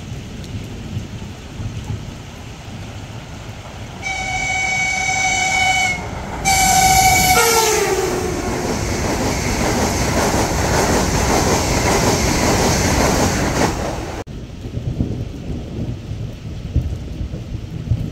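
ES1P Lastochka electric train passing at speed through rain. It sounds two horn blasts about four seconds in, the second dropping in pitch as it goes by. Then comes the rushing and wheel noise of the cars, which cuts off suddenly about fourteen seconds in.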